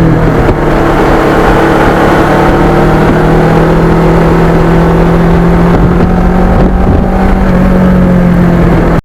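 Kawasaki Ninja motorcycle engine running at a steady cruising speed, holding one even engine note over a low rumble, with a slight dip near the end.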